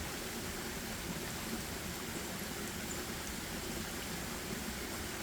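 Steady, even forest ambience: a continuous rushing hiss with no distinct events.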